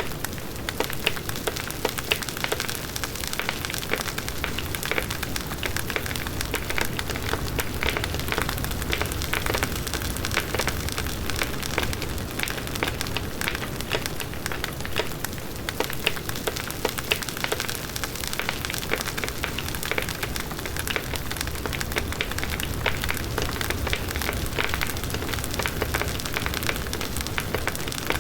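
Large outdoor wood bonfire burning steadily, with a dense, continuous crackling and popping of the wood over the low rush of the flames.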